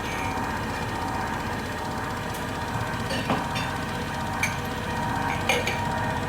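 Neff washing machine running with a steady mechanical hum, broken by a few sharp knocks and clinks in the second half.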